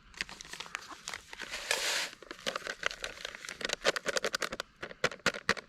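Kitchen scissors snipping open a packet of Zatarain's red beans and rice mix, with the packaging crinkling and clicking, and a longer rustle about a second and a half in.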